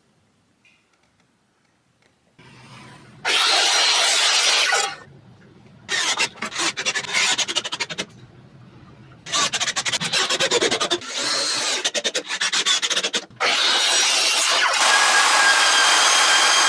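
Rasping, rubbing strokes on wood in separate bursts of one to two seconds, starting after a short quiet spell. Near the end a power tool starts running steadily with a whine.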